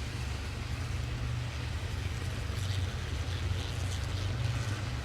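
Low steady rumble of a car running, heard from inside the car, with a few faint crackles higher up around the middle.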